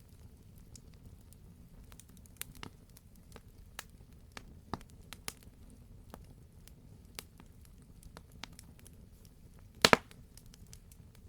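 Wood fire crackling in a fireplace: scattered sharp pops and ticks over a low, steady rumble, with a loud double pop near the end.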